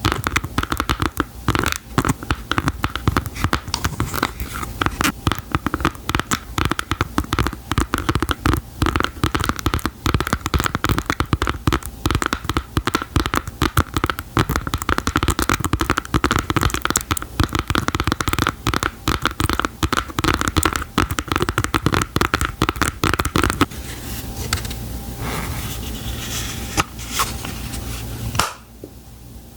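Rapid, dense tapping and scratching by hands on objects. About 23 seconds in it gives way to softer, steadier handling sounds.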